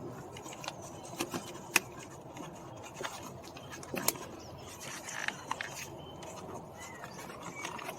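Scattered light clicks and taps of plastic parts being handled and worked loose: a car door's window switch assembly being pried out of its door panel, the sharpest click just under two seconds in.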